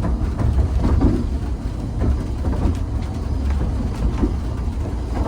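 Narrow-gauge railway carriage running on the track: a steady low rumble of wheels on rails, with light knocks and rattles.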